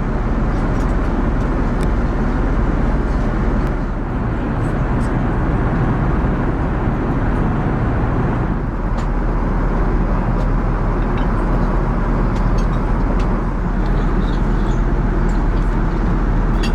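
Steady roar of in-flight cabin noise aboard an Airbus A380: airflow and engine noise heard from inside the cabin, with a few faint clicks.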